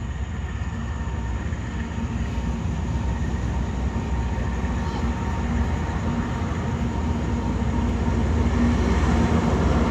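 Moving passenger train heard from inside a carriage: a steady running rumble that grows gradually louder.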